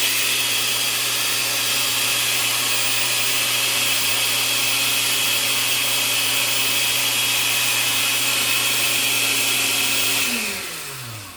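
Electric kitchen blender running at a steady speed, then switched off about ten seconds in, its motor winding down with a falling whine.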